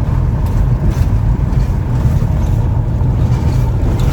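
Steady low rumble of a diesel car driving slowly over a rough gravel road, heard from inside the cabin.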